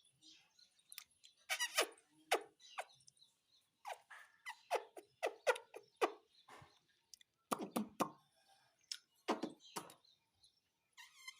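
Pet parrot making a string of short chirps, clicks and chattering calls, irregularly spaced and none of them long.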